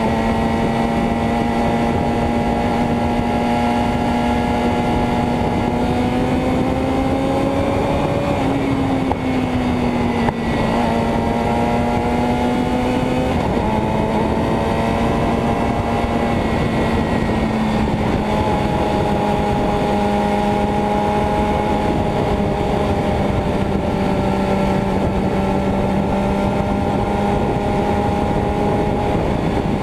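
Motorcycle engine running steadily under a rushing noise. Its pitch climbs gently and drops back about eight seconds in, then shifts again around thirteen seconds.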